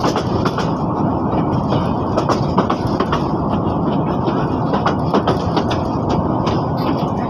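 Passenger train rolling slowly, at about 18 km/h, over poorly kept track, heard from an open coach window: a steady rumble with irregular clicks and knocks from the wheels on the rails.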